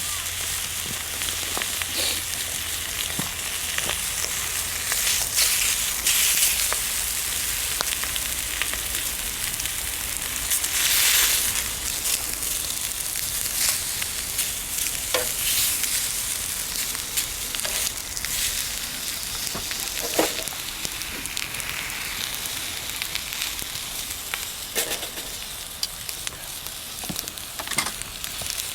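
Bacon and eggs sizzling in a frying pan over a campfire: a steady high hiss with scattered sharp pops, swelling louder about eleven seconds in.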